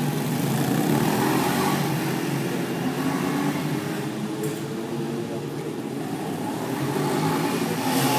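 Stels Flame 200's single-cylinder engine revving and easing off over and over as the motorcycle is thrown through tight turns between cones, its pitch rising and falling.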